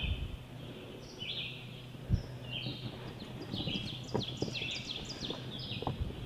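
Several birds chirping and singing, with many short high notes overlapping one another. A few soft knocks and thumps come through, the loudest about two seconds in.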